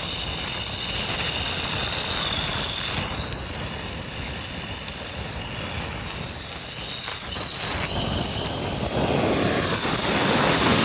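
Damp logs of a nodya log fire burning, with a steady hiss and a thin high whistle that wavers in pitch. The hiss grows louder near the end. The wood is still wet and only starting to catch.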